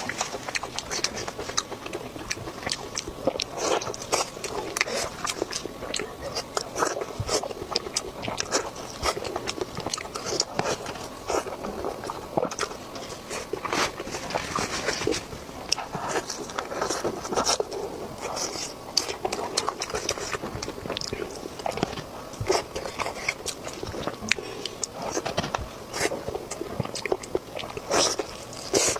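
Close-miked eating: crisp bites and crunchy chewing, with many sharp crackles throughout.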